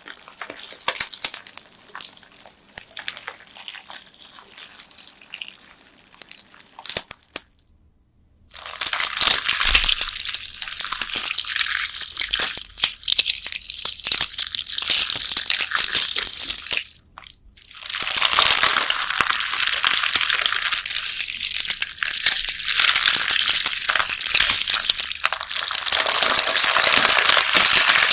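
Bead-filled slime being squeezed and pressed by hand, giving a dense crunchy crackle of many small beads. There are softer scattered sticky clicks for the first several seconds. The sound stops briefly twice.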